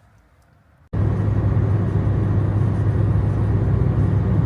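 Car on the move: a steady low rumble with road and wind noise, cutting in abruptly about a second in.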